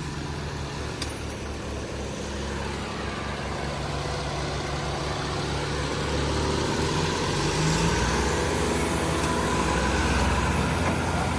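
Tractor engine running steadily, growing louder about halfway through.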